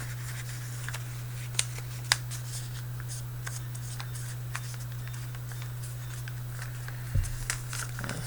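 A sheet of paper being folded and creased by hand: scattered crinkles and a couple of sharp paper snaps, with a low knock near the end, over a steady low hum.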